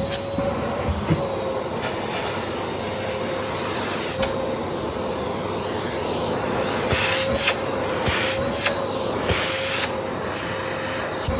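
Vacuum cleaner running steadily, its motor giving a faint wavering hum under a wash of noise. Scattered light knocks come through, with a few short bursts of louder hiss.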